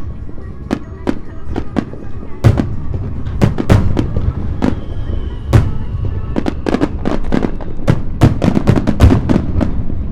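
Aerial fireworks bursting in quick succession: many sharp bangs over a low rumble, thickening into a dense barrage over the last few seconds.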